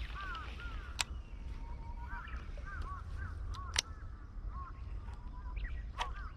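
Birds calling over and over in short arched chirps, with two sharp clicks, one about a second in and one near the middle, over a low rumble.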